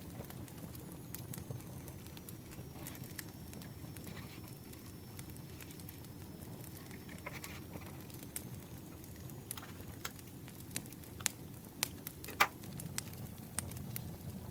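Campfire crackling: a low steady rumble of flames with scattered sharp pops, the loudest one near the end.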